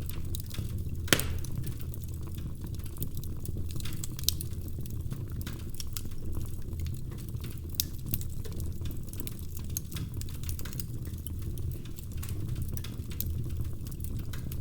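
Log fire crackling: a steady low rumble of burning wood with irregular sharp pops and snaps, the loudest one about a second in.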